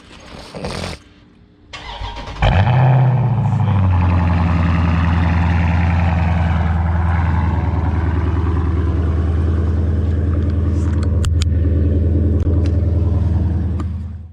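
Dodge Hemi V8 starting: a short crank about two seconds in, a rev flare as it catches, then a steady, loud idle.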